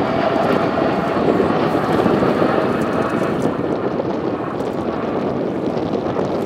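KC-135 Stratotanker's four CFM56 turbofan engines, heard as a steady jet rumble as the aircraft flies past overhead. The rumble is loudest about a second or two in and then slowly eases off.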